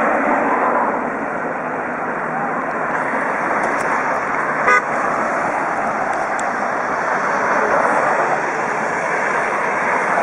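Steady road noise from highway traffic below, with a short car-horn toot about halfway through.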